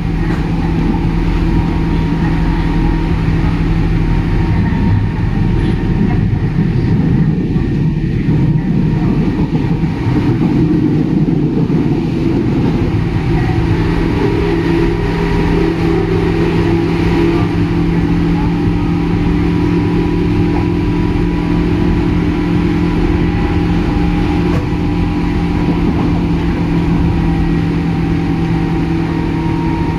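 Onboard running sound of a JR 103 series electric train, heard near the underfloor line breaker: steady running noise with a constant hum of several steady tones, which shifts for a few seconds partway through.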